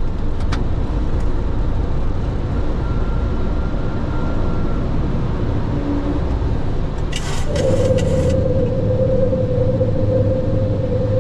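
Steady low rumble of a Boeing 737 flight deck in flight. About seven seconds in, a short burst of crackle is followed by a steady hum-like tone that holds to the end.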